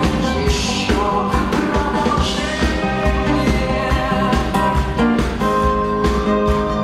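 Live rock band playing a song with drums and a singer's voice.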